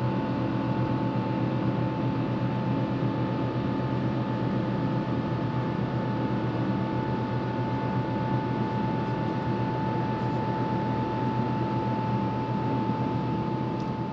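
Cabin noise of an Airbus A350-1000 climbing after takeoff, its Rolls-Royce Trent XWB engines at reduced climb thrust: a steady rush of airflow and engine hum with a constant whine.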